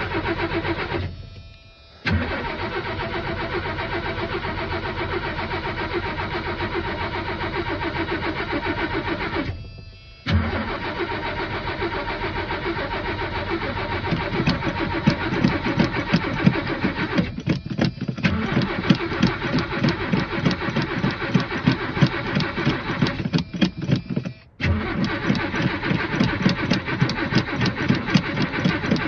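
Old truck's engine being cranked on the starter from cold with the choke on and the gas pushed, struggling to start and keep going. The sound fades away and comes back abruptly several times as it is re-cranked. The hard start is put down to a fuel pump that still needs bleeding.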